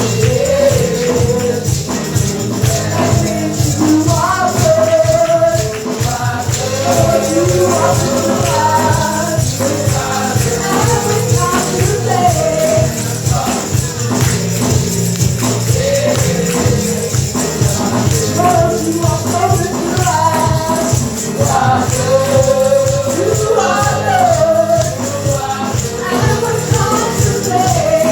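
Congregational gospel singing with a tambourine and band accompaniment, a steady beat.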